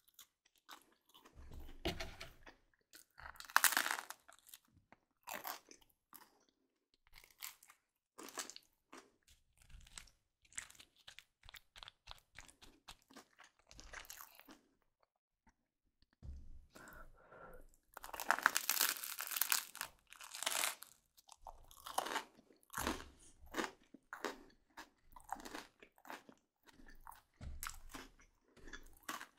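Close-miked crunching and chewing of a crispy baked cup with a browned cheese crust, in irregular bursts of bites and crunches. There is a short pause about halfway, and the loudest, densest crunching comes soon after it.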